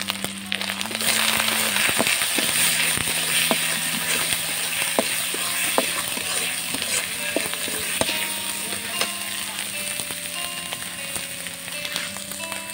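Onion and spice paste sizzling in hot oil in an iron wok while a metal spatula stirs and scrapes it, with sharp clicks of the spatula against the pan. The sizzle gets louder about a second in. Soft background music with held notes plays underneath.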